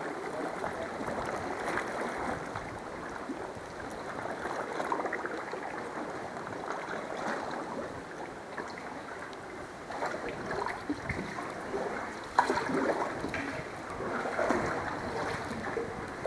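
Water splashing and trickling around a paddled kayak, in uneven swells, with one sharp knock about twelve seconds in.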